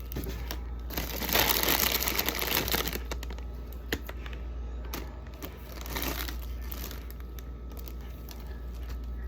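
Egg cartons being handled as eggs are moved from one to another: uneven bursts of crinkling and rustling with a few light knocks.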